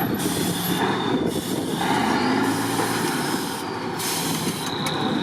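Off-road trial truck's diesel engine running hard under load, with a thin high whistle that comes and goes and bursts of hiss over the engine noise.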